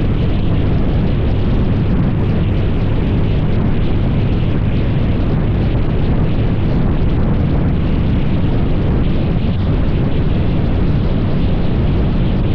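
Steady rush of wind buffeting the microphone while riding a Can-Am Spyder three-wheeler at speed, with a faint drone from the machine underneath.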